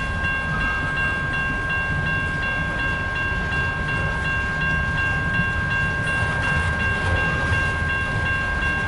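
Freight cars of a slow CN manifest train rolling past with a steady low rumble. Over it a railroad crossing warning bell rings continuously, its tone pulsing about twice a second.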